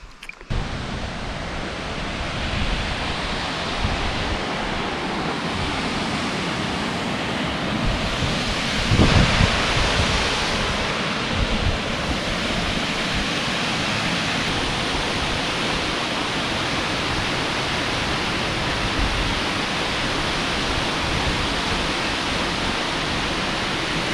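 Waterfall running steadily: a dense, even rush of falling water, briefly louder about nine seconds in.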